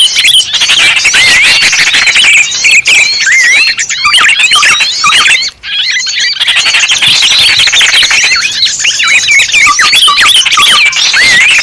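Many small birds chirping and twittering at once, a dense chorus of short, quick, overlapping high calls, with a brief gap about five and a half seconds in.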